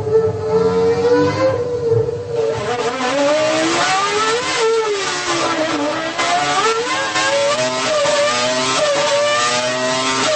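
Renault Formula 1 engine running at high revs, its pitch rising and falling as it is revved up and eased off.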